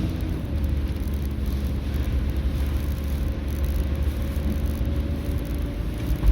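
A vehicle on the move: a steady low rumble of engine and road noise with a faint, even engine hum over it.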